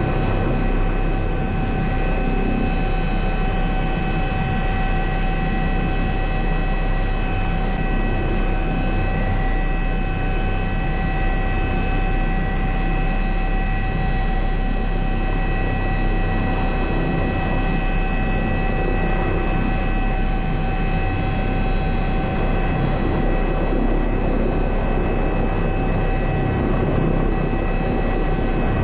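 Crew-change helicopter running steadily: loud, constant engine and rotor noise with several unchanging high turbine whines over a low rumble.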